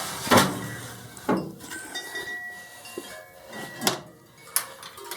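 Metal clanks and knocks of the steel door of an Assassin 48 smoker being shut and latched: several separate knocks, the loudest about half a second in, more near the end.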